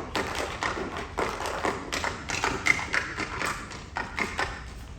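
Tap dancing: a quick, irregular run of shoe taps and heavier stomps on a stage floor.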